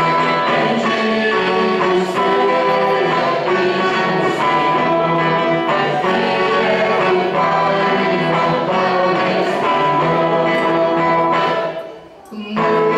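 Sung church hymn with instrumental accompaniment, the music steady and full; near the end it falls away for a moment before starting up again.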